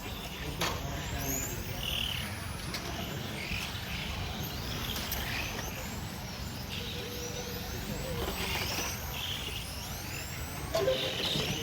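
1/10-scale electric on-road RC race cars running laps: high-pitched motor and gear whines that rise and fall over and over as the cars accelerate and pass, over a steady low background rumble.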